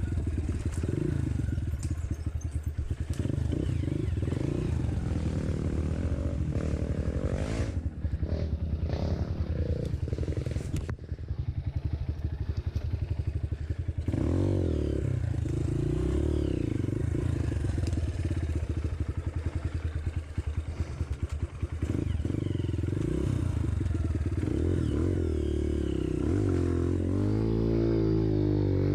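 Dirt bike engine running, its revs rising and falling with the throttle and climbing near the end.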